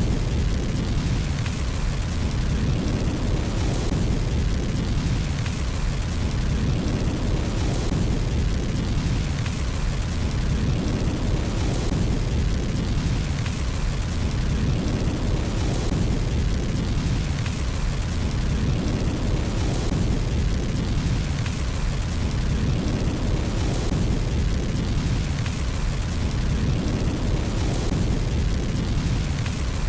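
Fireplace fire burning: a steady low rumble of flames with faint crackles, swelling in a regular cycle about every four seconds.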